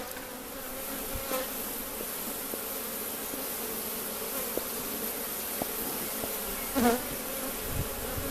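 Honeybee colony in an opened hive buzzing as a steady hum, stirred up by the smoker's smoke. A louder, wavering buzz swells briefly about seven seconds in.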